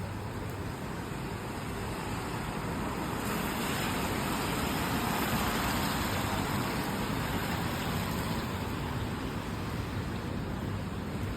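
A car passing on a wet road, its tyre hiss swelling and fading over several seconds, over the steady hiss of rain.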